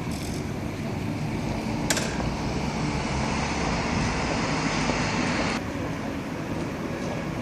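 Street traffic noise: car engines running and tyre and road noise, steady with no clear revving, and a sharp click about two seconds in.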